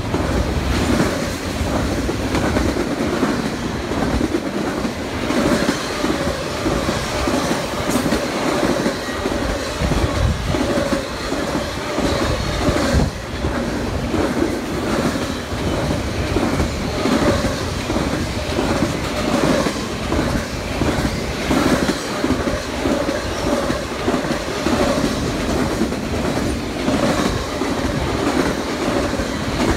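Double-stack intermodal freight train rolling past at track side, its wheels clattering over the rail joints in a rapid, steady rhythm. A faint, steady wheel squeal rides over the clatter from a few seconds in.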